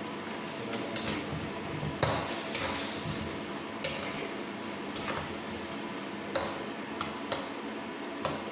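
Metal cooking utensil clinking against a pan, about nine sharp clinks at irregular intervals, over a steady low hiss.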